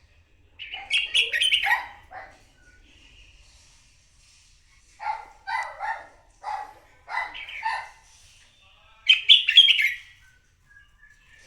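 Red-whiskered bulbul singing its competitive fighting song in three bouts of quick, varied phrases, the last the loudest, with faint short notes between them.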